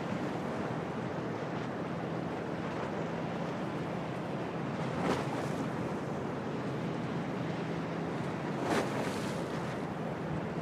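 Storm wind and waves at a harbour: a steady rushing under a low, even hum, with two brief louder surges about five and nine seconds in.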